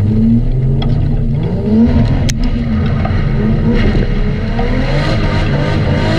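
Nissan Silvia's RB straight-six engine revving hard under repeated throttle, its pitch rising and falling again and again, with a sharp click about two seconds in.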